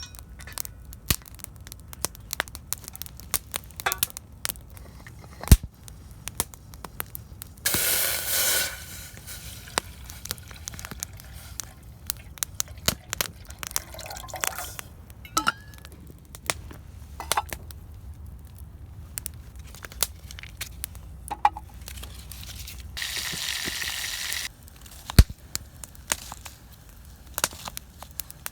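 Campfire cooking with a mess tin: scattered sharp crackles and clicks, with two short spells of hissing noise, one about eight seconds in and a longer one near the end.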